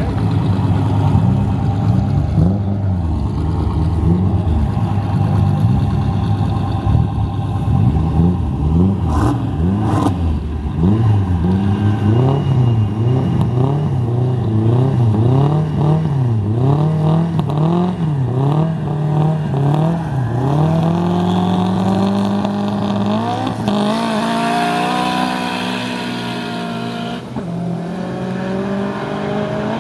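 Two drag cars' engines revving up and down again and again while staged at the starting line, then launching about two-thirds of the way in: engine pitch climbs steadily under full throttle with a gear change as they accelerate away.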